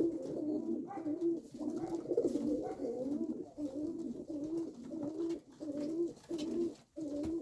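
Domestic pigeons cooing: a steady run of short, low, repeated coos with no break.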